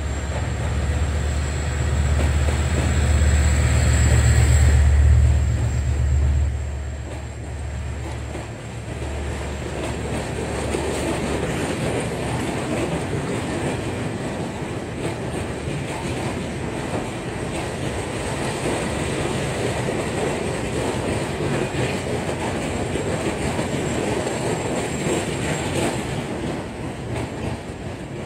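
Diesel locomotive's engine rumbling as it hauls a passenger train past, loudest as it goes beneath about five seconds in. Then the coaches roll by with a steady rush of wheels on the rails and light clicking over the rail joints, fading near the end.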